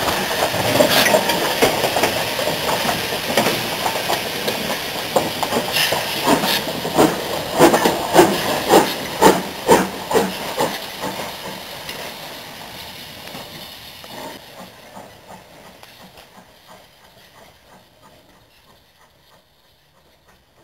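Steam locomotive and its train going by: steam hiss with a run of beats, dying away over the second half until almost nothing is left.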